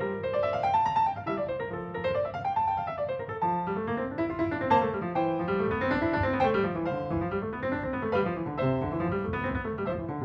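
Background piano music: flowing arpeggios rising and falling in a steady run of notes.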